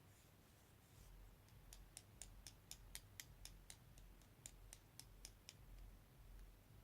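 Faint run of light, quick clicks and taps, about three or four a second for some four seconds, as small craft supplies such as stir sticks and cups are handled.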